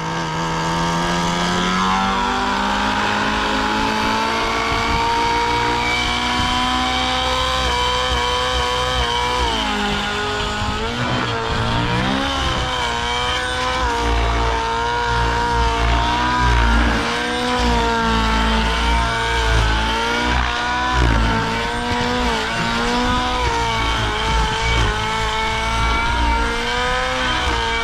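O.S. 1.05 HZ-R two-stroke nitro glow engine of a SAB Goblin Raw 700 helicopter running with its rotor head spinning. The pitch climbs over the first couple of seconds, then wavers up and down, dipping about ten seconds in. The engine is still running too rich after its needle was leaned two clicks.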